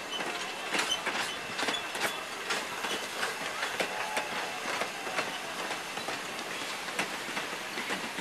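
Moving train: a steady rolling noise with irregular clicks and rattles from the wheels and cars.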